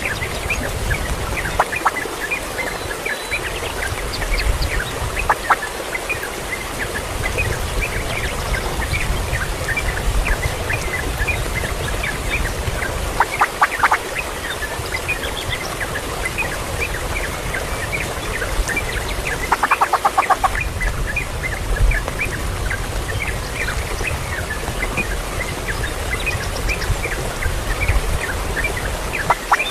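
Birds calling: a steady stream of short high chirps, with a few rapid runs of harsher calls, over a low rumble.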